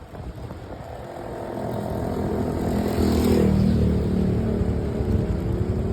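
Motor vehicle engine running, growing louder over the first three seconds and then holding steady, with a short hiss about halfway through.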